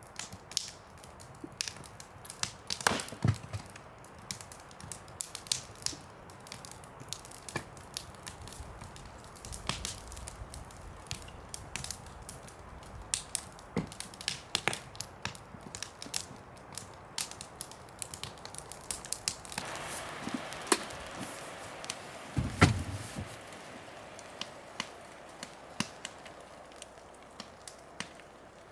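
Irregular sharp clicks and taps, a few each second, with two heavier knocks about three seconds in and near the middle of the second half.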